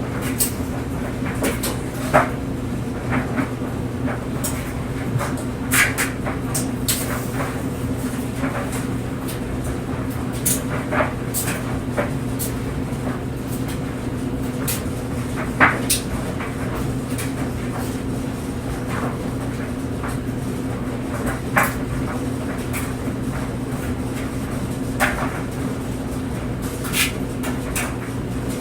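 Clothes dryer running with a steady low hum as clothes tumble in the drum, with irregular light knocks and clicks as items drop and hit the drum.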